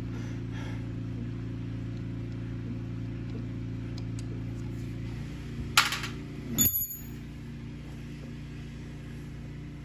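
A steady low machine hum, easing down a little partway through. A sharp click comes about six seconds in, followed shortly by a short ringing metallic clink.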